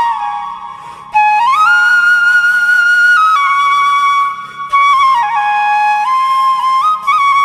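Solo flute playing a slow melody of held notes that slide and step between pitches, with a brief dip about a second in.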